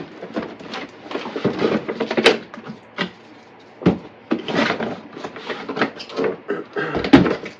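A cardboard fireworks box being opened and handled: irregular rustling, scraping and a run of knocks and clicks, the sharpest knocks about two seconds in and near the end.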